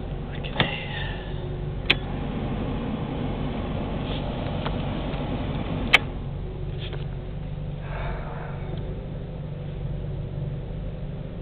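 1992 Geo Storm's 1.6-litre four-cylinder engine idling steadily after a cold start. The car has an exhaust leak, and the owner says the engine already needs an overhaul. A few sharp clicks sound over the idle, the loudest about six seconds in.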